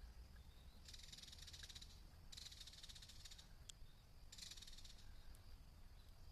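Insects calling: three separate rapid, buzzy trills of about a second each, over a faint steady high-pitched drone from other insects.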